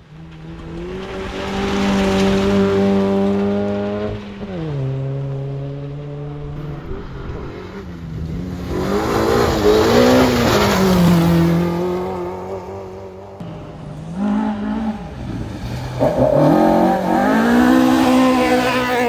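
Rally car engine revving hard, its pitch dropping sharply with gear changes and lifts and climbing again under throttle. It is loudest about ten seconds in and again near the end.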